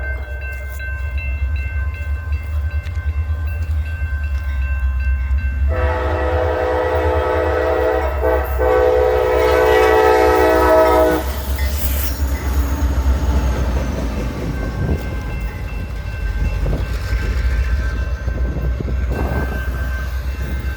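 Local freight train passing with a steady diesel rumble. Its horn sounds for about five seconds from about six seconds in, then the wheels click and knock over the rails.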